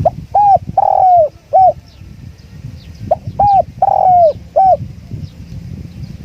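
Spotted dove cooing: two phrases of about four coos each, the second starting about three seconds in, over low wind rumble on the microphone and faint chirps of small birds.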